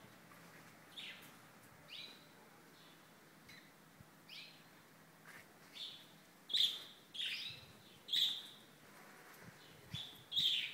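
A small bird chirping: a string of short, separate chirps, several sliding downward in pitch, growing louder in the second half.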